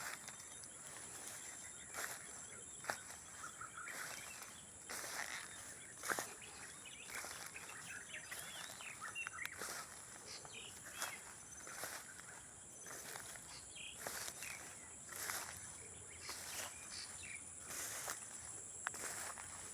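Natural night-and-dawn style ambience: crickets keep up a steady high trill throughout while birds give short scattered chirps, over a run of brief sharp clicks or ticks every second or so.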